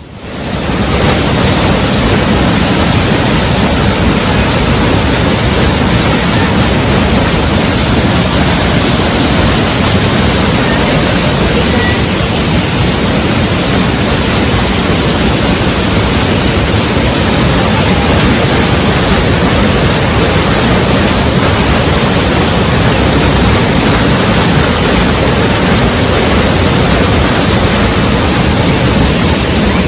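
Waterfall pouring, a loud steady rushing of water that comes up within the first second and then holds even.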